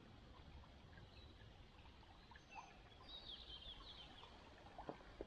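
Near silence with a faint outdoor hush; a small bird chirps faintly in a quick run of short high notes about three seconds in, and a couple of light ticks come near the end.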